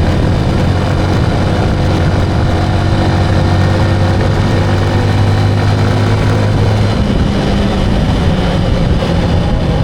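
Motorcycle engine running steadily under way, with road and wind noise; the engine's hum changes pitch about seven seconds in.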